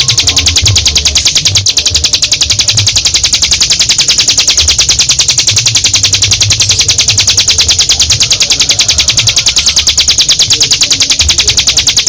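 Ciblek gunung, a prinia, singing one long unbroken 'ngebren' trill: a loud, high-pitched run of very rapid, evenly repeated notes that does not pause.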